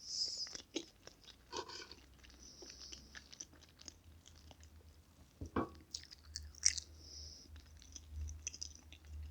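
Close-miked chewing of soft chocolate cake: moist, sticky mouth sounds and small clicks, with a sharper click about five and a half seconds in.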